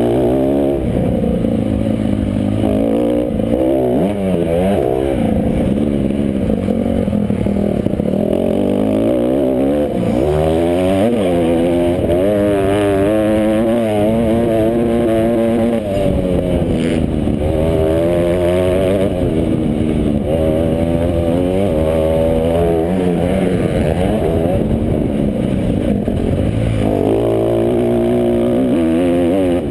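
Motocross bikes racing, several engines heard at once, their pitch rising and falling over and over as the riders rev up and back off through the track.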